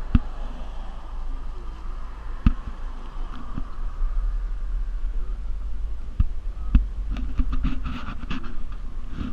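Hurricane wind buffeting the microphone as a steady low rumble, with scattered sharp knocks and a quick run of clicks near the end.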